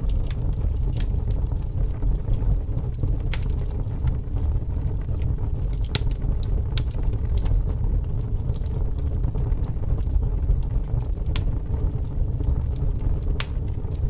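A fire burning with a steady low rumble of flames and scattered sharp crackles and pops every second or few.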